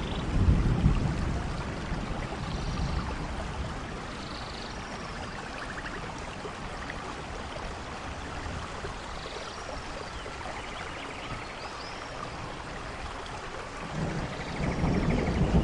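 Steady rainfall with a low rumble of thunder about half a second in and another building near the end. Short, high bird chirps and brief trills sound here and there over the rain.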